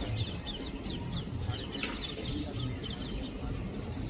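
Birds calling: rapid, repeated short high chirps, several a second, with lower clucking sounds mixed in.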